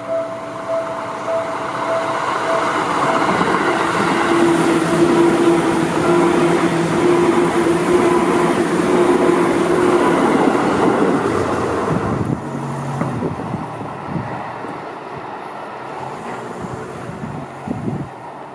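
Seibu 4000 series electric train passing close by: its running noise builds, with a steady hum at its loudest, then falls away about twelve seconds in, leaving a few clicks of the wheels over rail joints as it fades. A level-crossing bell rings in pulses, about two a second, during the first few seconds.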